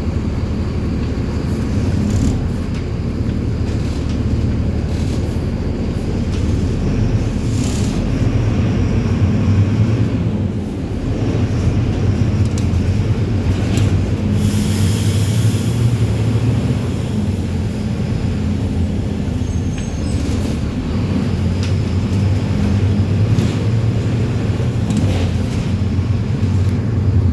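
Mercedes-Benz 1724L bus diesel engine running, its low note rising and easing, with a brief hiss of air about halfway through.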